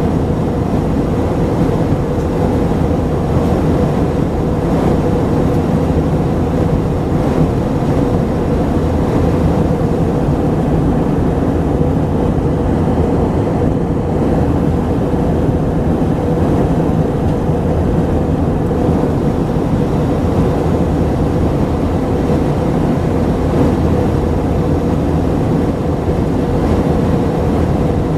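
Airbus A319's IAE V2500 jet engines running steadily, heard inside the passenger cabin as a loud even rumble with a steady hum. The level holds the whole time, with no spool-up or throttle change.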